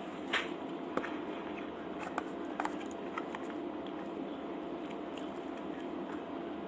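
Close-miked mouth sounds of someone eating soft cheese tortas: a few wet bites and chewing clicks, the sharpest about half a second in. They sit over a steady background hum.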